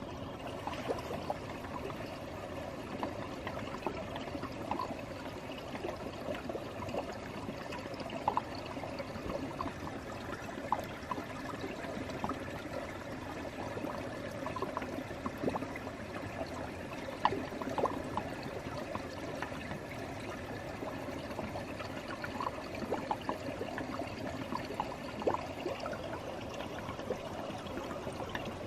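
Running water trickling and burbling steadily, with small splashy ticks scattered through it.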